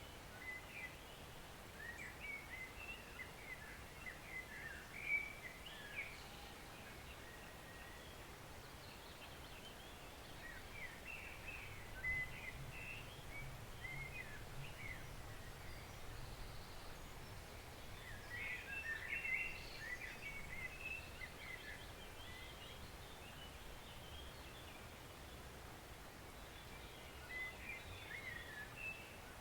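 Faint steady rush of a woodland stream, with small birds chirping and singing in short bouts: a few seconds in, around the middle, and again near the end.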